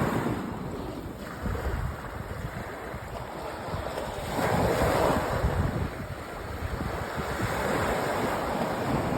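Sea waves breaking and washing up a sandy beach, with one larger wave surging about halfway through. Wind rumbles on the microphone underneath.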